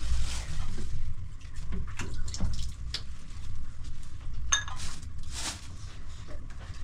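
Water running and dripping, with scattered light clicks and knocks, and a brief high squeak about four and a half seconds in.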